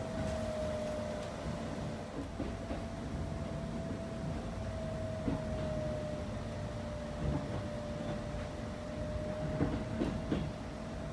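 Electric train running slowly over pointwork, heard from inside just behind the driver's cab: a steady low rumble with a thin whine that sags a little in pitch and rises again near the end. A few separate knocks from the wheels crossing rail joints and points.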